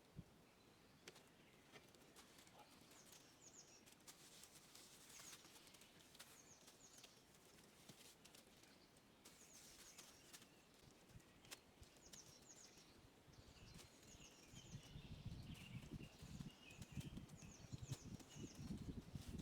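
Faint bird chirps repeating every second or two over near silence, with a few scattered clicks. A low rustling grows louder in the last few seconds.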